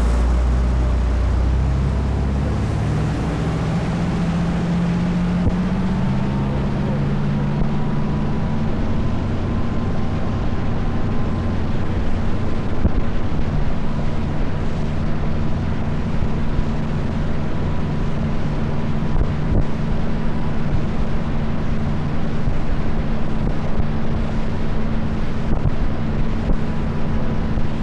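Tour boat's engine running under way, its pitch rising over the first few seconds as the boat picks up speed, then holding steady. Wind is on the microphone.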